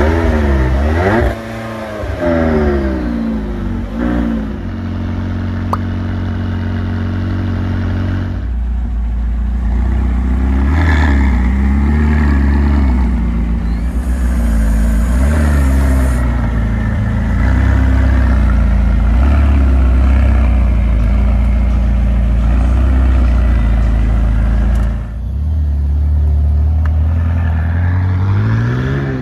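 McLaren 600LT's twin-turbo V8 through its top-exit exhausts, just after a cold start: a few revs rising and falling in the first few seconds, then a long steady idle, and near the end a rising rev as the car pulls away.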